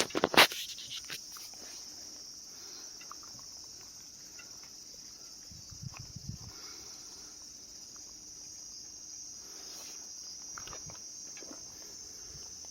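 Steady, high-pitched chirring of insects such as crickets, with a sharp click about half a second in and a few lighter knocks and clicks later on from the bike being handled.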